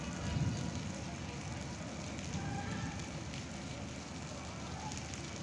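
Heavy rain pouring steadily, an even hiss of falling drops with a low rumble underneath.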